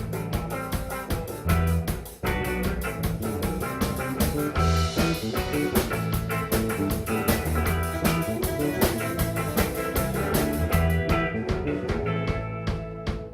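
Live band playing an instrumental passage of a song, with guitar, bass and a steady drum-kit beat.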